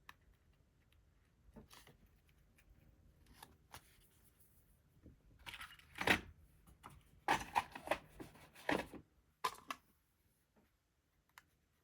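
Paper and cardstock pieces being handled and pressed into place: light rustling, crinkling and small taps, busiest and loudest in the middle.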